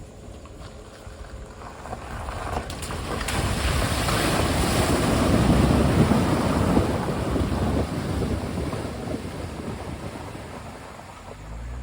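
A vehicle fording a shallow river, with water splashing and rushing against it. The noise swells to a peak about halfway through, then dies away.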